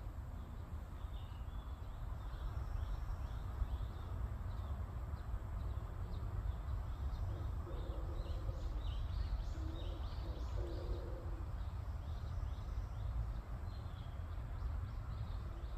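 Small birds chirping over a steady low rumble, with a few lower, held calls around the middle.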